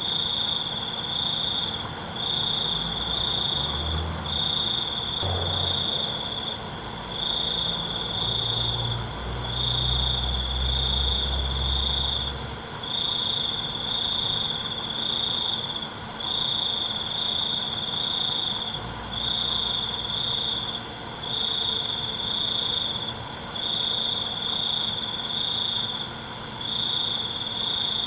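Crickets chirping: one sings high trills of one to two seconds with short gaps between them, while another keeps a quicker pulsed chirping just above it in pitch. A low rumble comes in a few seconds in and fades after several seconds.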